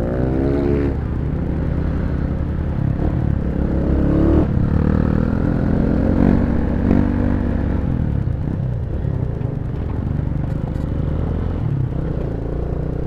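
Honda Tiger single-cylinder four-stroke motorcycle engine running under way, heard from the rider's seat, its note rising and falling a few times with the throttle.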